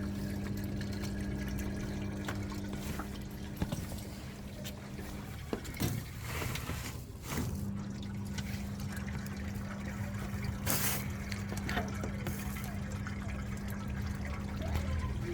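Washing machine drain pump humming steadily as it pumps water out of the overfilled drum, with water running. The hum cuts out for about two seconds a little past the middle, then starts again.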